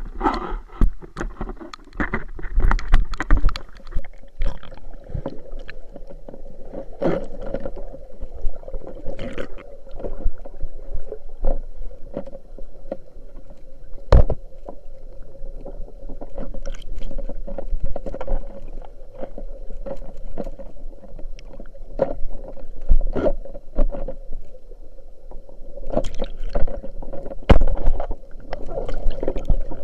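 Water moving and gurgling around the microphone, with many sharp knocks and clicks scattered throughout and a faint steady hum underneath.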